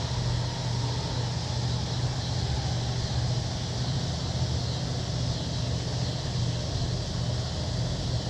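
Steady low hum of a boat engine running, under a hiss of wind and water.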